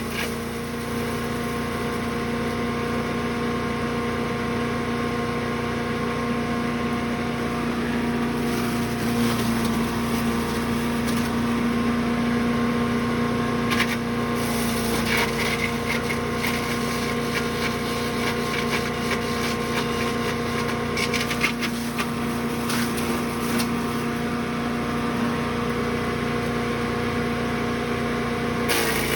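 Brush Master 3-in-1 wood chipper/shredder's gasoline engine running steadily at a constant speed, with a few short crackles partway through.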